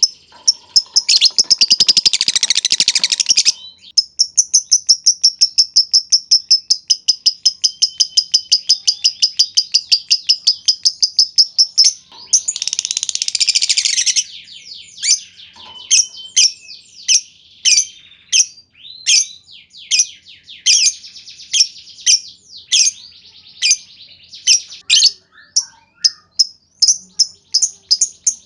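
Lovebird chirping in a fast stream of sharp, high calls, about five a second, the staccato 'ngetik' style used as a lure for other lovebirds. It breaks twice into a longer, dense rattling trill: once about a second in, and again about twelve seconds in.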